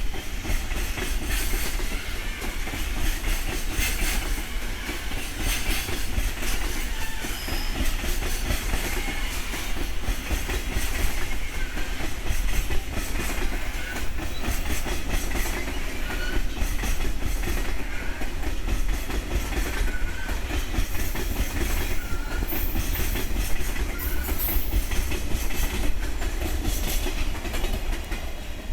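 Freight train rolling past on departure: a steady rumble of wheels on rail, with frequent clacks over rail joints and a few faint brief squeals.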